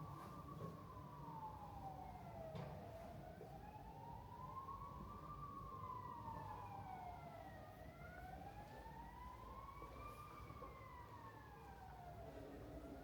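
Emergency vehicle siren sounding a slow wail, its pitch rising and falling about every five seconds, faint over a low street rumble. A single sharp click comes a little over two seconds in.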